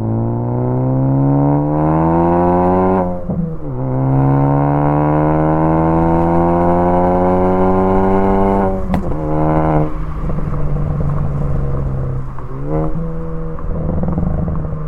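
2014 Ford Focus ST's turbocharged 2.0-litre four-cylinder accelerating hard, its pitch climbing, dipping at a gear change about three seconds in, then climbing again. About nine seconds in the throttle is lifted: a sharp pop from the exhaust, then crackles on the overrun, which the owner's own tune and catless downpipe are set up to produce.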